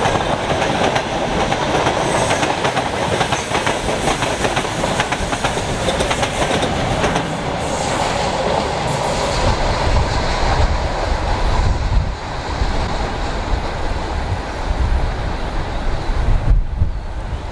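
Freight train wagons rolling past at speed, a steady clattering of wheels over the rail joints with some wheel squeal. A heavier low rumble comes in about halfway through.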